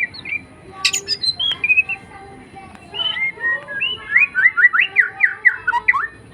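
A tame pet bird chirping and whistling in a varied string of short notes, with a sharp call about a second in and a quick run of about five rising whistles a second that steps down in pitch near the end.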